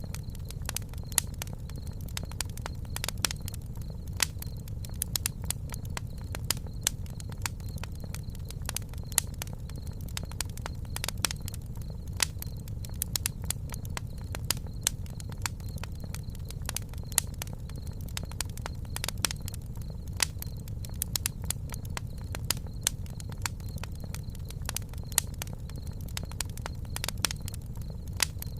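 Campfire burning, with irregular sharp crackles and pops from the wood over a steady low rumble.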